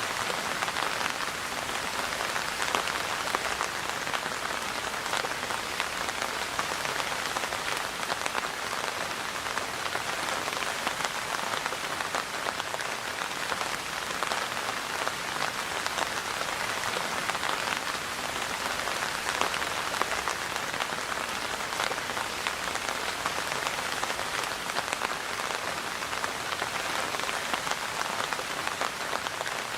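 Steady rain falling and pattering on a surface, a dense even hiss of many small drops.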